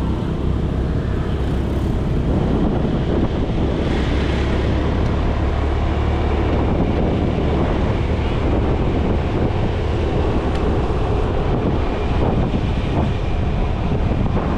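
Wind rushing over the microphone on a moving motorcycle taxi, with the motorcycle's engine running steadily underneath.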